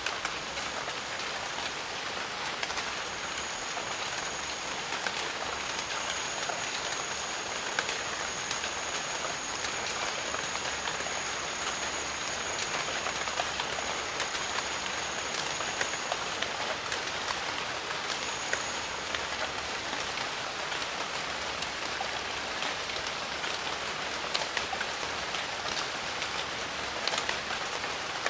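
Steady jungle rain falling, an even hiss with scattered close drops ticking. A thin, high steady tone runs through much of the first half and returns briefly a little later.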